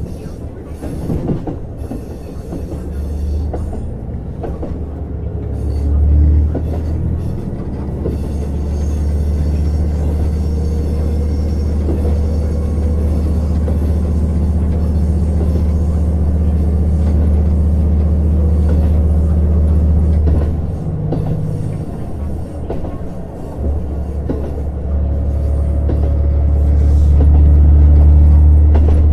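Diesel railcar heard from inside the passenger cabin: a JR KiHa 150's diesel engine running hard under power with a steady low drone, easing off briefly about twenty seconds in and then building again to its loudest near the end, over wheel-and-rail rumble and occasional rail-joint clicks.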